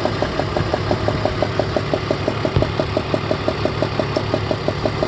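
BMW E46 330ci's straight-six engine idling with a rapid, even ticking knock, about seven ticks a second. The knock is the sign of a loose spark plug on cylinder 4.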